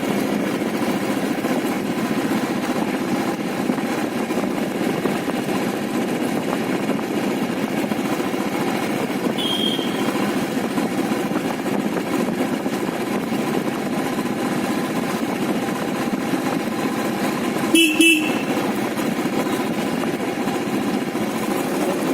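Motorcycle riding along with steady engine and road noise, and a vehicle horn sounding two short honks close together about eighteen seconds in.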